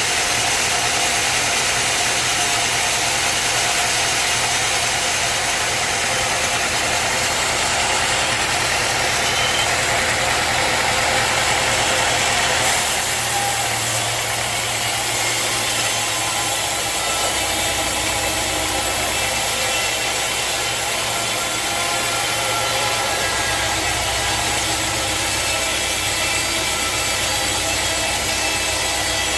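Sawmill machinery running steadily, engine-like, with a change in tone about thirteen seconds in.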